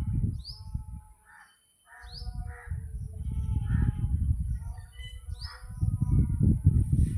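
Birds calling: caws like a crow's and short rising chirps that repeat every second or two, over a loud low rumble that drops away briefly about a second and a half in.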